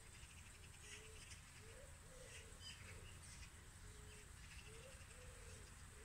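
Faint bird calls: a low call repeated every second or two, with short higher chirps scattered between.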